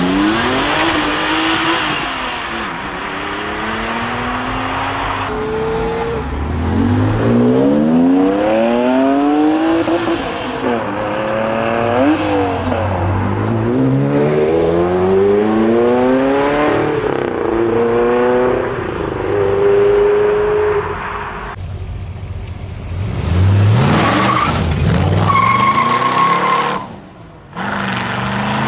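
High-performance car engines accelerating hard away, revving up in a string of rising notes that fall back at each gear change, one run after another.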